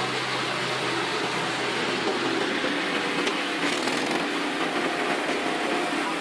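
Gas engine of a 30-ton kinetic log splitter running steadily, with a brief spell of higher hiss about two-thirds of the way through.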